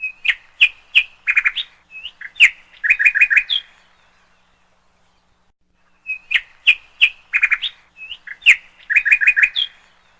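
A songbird singing the same phrase twice: quick clear chirps followed by short rapid trills, each phrase lasting about three and a half seconds, with a pause of about two and a half seconds between them.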